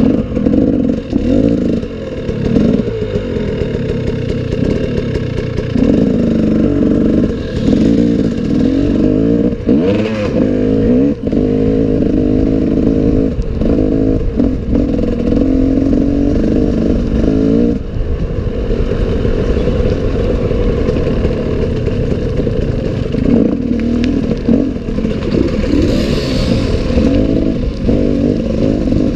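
Enduro motorcycle engine running hard off-road, its revs rising and falling constantly with the throttle. Frequent knocks and clatter come from the bike over rough ground.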